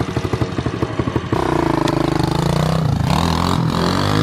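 Small single-cylinder engine of a Chinese 125cc pit bike idling with an even pulse, then revved about a second in, the engine note rising and falling as the throttle is worked.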